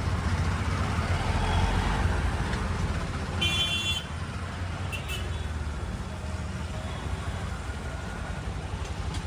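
Road noise on a motorcycle ride through traffic: a steady low rumble of engine and wind. About three and a half seconds in, a short high-pitched horn beep sounds for about half a second.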